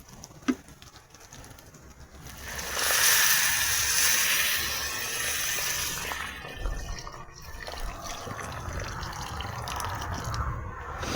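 Water poured into a cooking pot for rice: a loud hissing gush that starts about two seconds in and lasts about three and a half seconds, then gives way to a fainter steady noise. A couple of sharp clicks come just before it.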